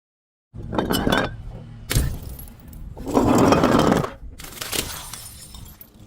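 Glass bottles shattering: several breaks in quick succession starting about half a second in, the loudest crash in the middle, followed by shards clinking and settling.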